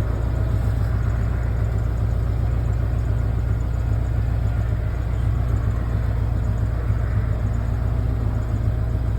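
An engine idling steadily with a constant low rumble.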